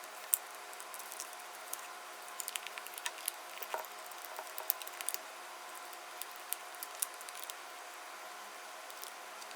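Small aquarium air pump humming steadily, with scattered small clicks and pops over it.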